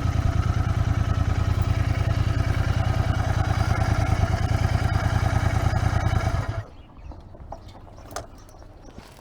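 Royal Enfield Interceptor 650's parallel-twin engine running steadily with an even, rapid beat, then cut off abruptly about six and a half seconds in, leaving a few faint clicks.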